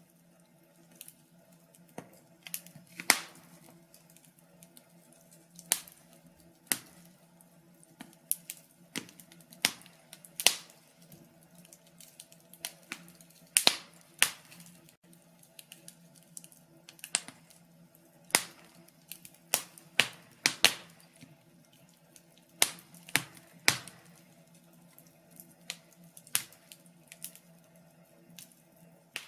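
Wood fire in a fireplace crackling, with irregular sharp pops of varying loudness, some much louder than the rest.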